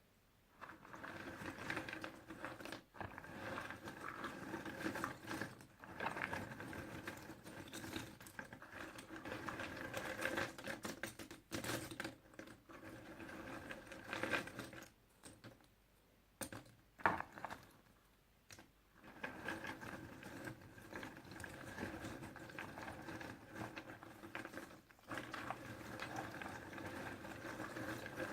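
Puzzle pieces rattling and clicking as hands rummage through and shuffle them, with a couple of short pauses and one sharper click about seventeen seconds in.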